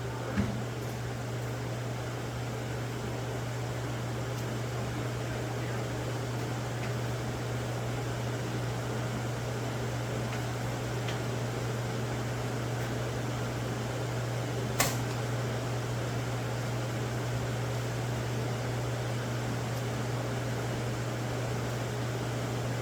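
Shop fan running steadily with a low, even hum, broken by two sharp knocks, one just after the start and one about two-thirds of the way through.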